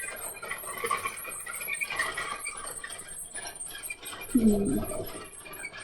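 Faint scratchy rustling of a marker and paper while searching a word-search puzzle, with a short hummed voice sound about four seconds in.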